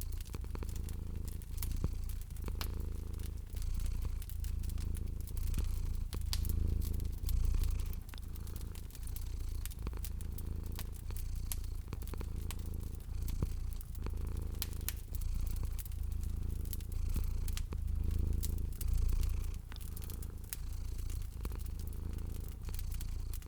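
A cat purring in a low rhythmic rumble that swells about once a second, with the sharp pops and crackles of a wood fire over it.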